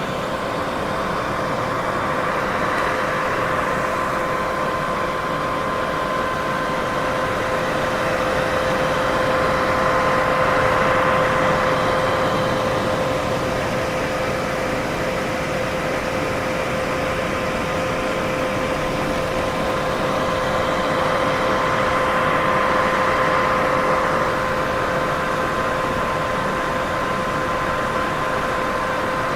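Steady white noise: an unbroken hiss with a constant two-note hum running through it, swelling slightly in level about ten seconds in and again a little after twenty seconds.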